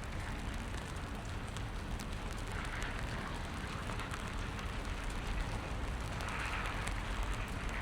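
Steady rain on wet pavement, an even hiss with scattered ticks of individual drops, swelling briefly twice.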